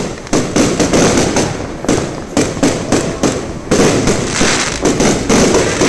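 Fireworks going off: a rapid, irregular series of loud bangs, several a second, with hissing and crackle between them.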